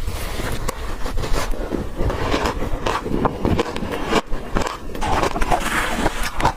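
Ice being bitten and chewed: dense, irregular crunching and cracking.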